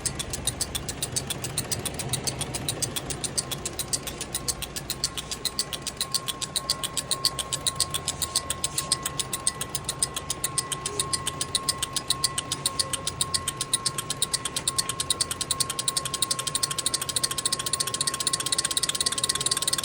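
Diesel injectors being fired by an ECM on a bench tester, ticking rapidly and evenly at about five clicks a second.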